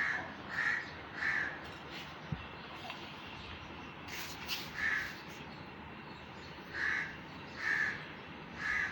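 A crow cawing repeatedly in short harsh calls: three in quick succession, a single one about halfway through, then three more near the end.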